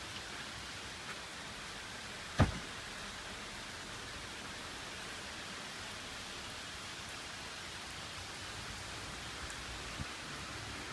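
Steady rain falling, an even hiss. A single sharp knock about two and a half seconds in and a faint click near the end.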